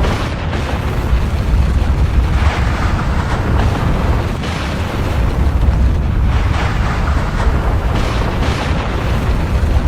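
Volcanic eruption: a continuous deep rumble with rushing blasts that surge up every second or two.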